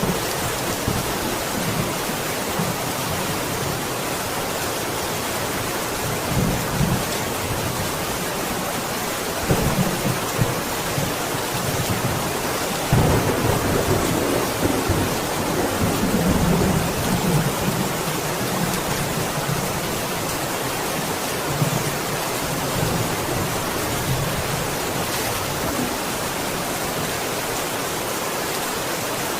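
Steady heavy rain with thunder rumbling: low rolls come and go, the longest and loudest starting about 13 seconds in and lasting several seconds.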